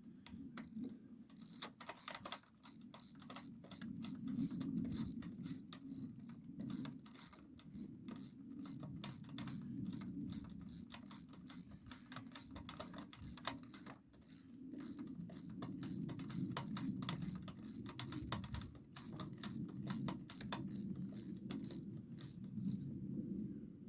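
Hand ratchet with a socket and extension clicking in quick irregular bursts while a spark plug is worked loose from the engine.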